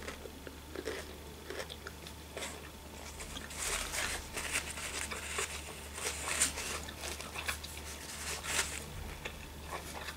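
A person chewing a mouthful of sushi roll with the mouth closed: soft, irregular wet clicks and crackles, busiest in the middle.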